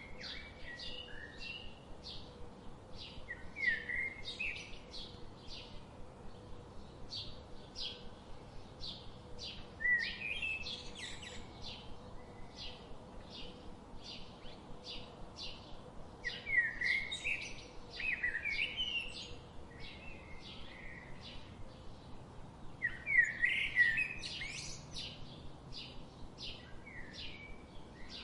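Birds singing: a steady series of short high chirps repeating two or three times a second, with louder warbling song phrases breaking in several times. A faint steady hiss runs underneath.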